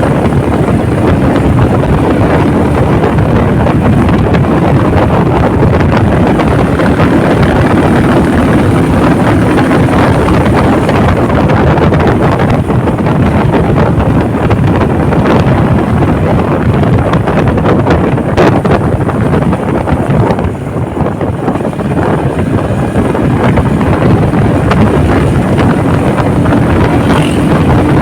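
Heavy wind buffeting the microphone on a moving motorcycle, with the engine's steady drone underneath. The level dips briefly about twenty seconds in.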